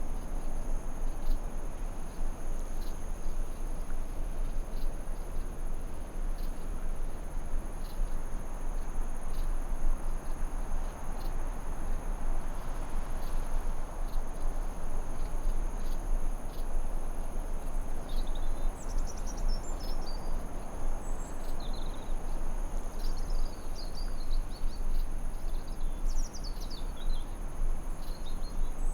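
Forest ambience: a steady noise bed under a continuous high insect trill, with small birds chirping and twittering from about two-thirds of the way in.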